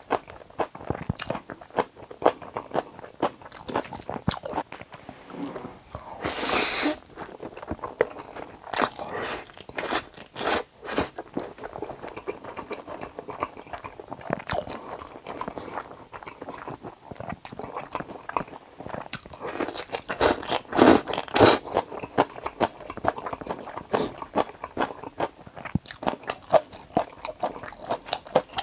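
Close-miked eating: Jjapaghetti black-bean noodles and kimchi being chewed, with continual wet mouth clicks and crunching. There are louder bursts about a quarter of the way in, again around a third, and twice about three quarters through.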